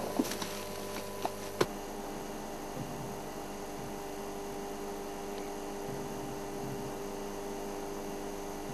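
A steady electrical hum that holds one set of pitches throughout, with a few sharp clicks in the first couple of seconds.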